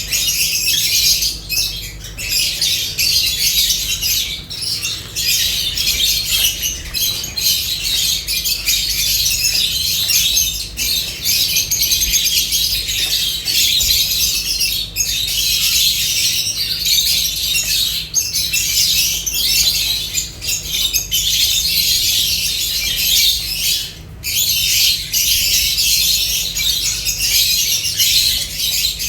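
A flock of lovebirds chattering and squawking, with constant high-pitched chirps overlapping.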